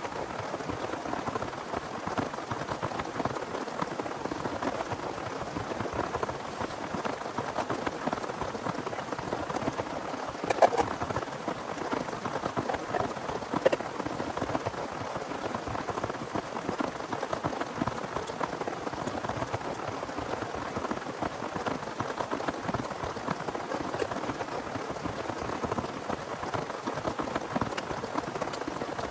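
Heavy rain falling steadily, a dense patter of drops. There are two louder knocks, one about ten seconds in and another about three seconds later.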